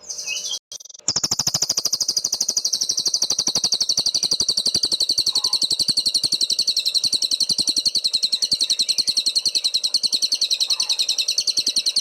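A cililin songbird singing one long, unbroken, very rapid trill that starts about a second in, its fast notes repeating many times a second. This is the continuous 'full bren' song that bird keepers play to tutor other cage birds.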